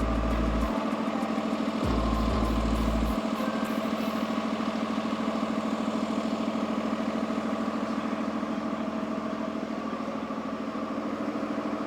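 Large diesel engine idling steadily, a constant hum with no change in speed. Two short low rumbles near the start, about a second each, sound like wind on the microphone.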